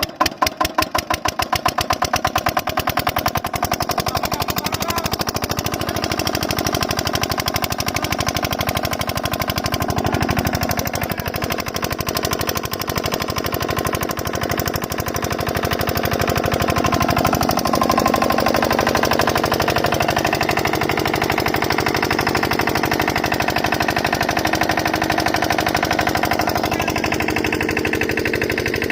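8 HP diesel water-pump engine catching and running with a rapid, even chugging beat that picks up speed and settles within the first couple of seconds.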